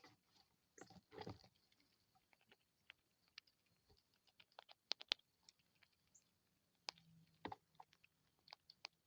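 Faint scattered clicks and crunches of a small animal feeding, with a short rustle about a second in.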